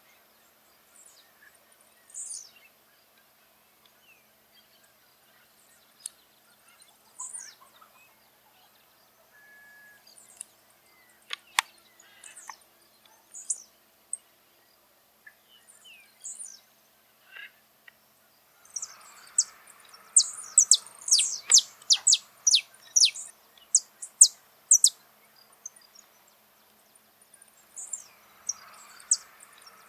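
Saffron finch (canário-da-terra) singing: scattered single high chips at first, then about two-thirds of the way in a long, fast run of sharp high notes lasting several seconds, which starts up again near the end.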